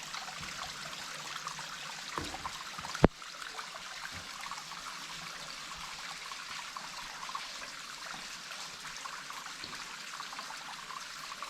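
Water trickling and dripping steadily in a flooded mine cavern, with one sharp knock about three seconds in.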